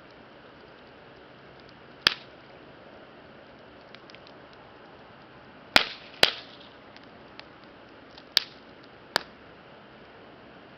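Wood campfire burning with a steady hiss and small crackles, and five sharp loud pops of burning wood: one about two seconds in, two close together near the middle, and two more near the end.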